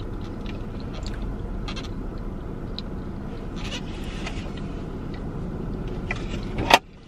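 A person chewing a mouthful of bread with the mouth closed, with small wet mouth clicks, over a steady low rumble. A sharp click near the end, after which the rumble drops away.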